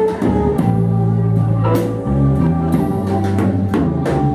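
Live blues band playing an instrumental passage: guitar over a bass line, with drum-kit hits.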